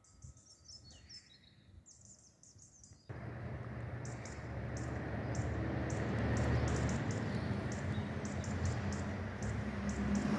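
Faint bird chirps, then about three seconds in a freight train's loud, steady rumbling noise starts suddenly as it passes over the level crossing.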